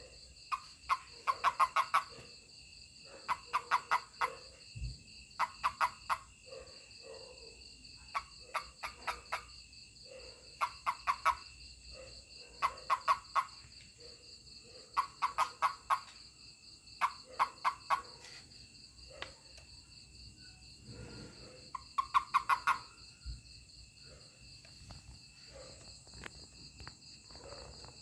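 A toad's pulsed calls when touched: about nine short bursts, each a quick run of four to six pulses, every second or two, fading out in the last few seconds. Steady high-pitched insect chirring runs underneath.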